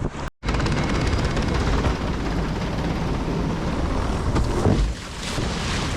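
Wind buffeting the microphone: a steady rushing rumble, broken by a split-second gap just after the start.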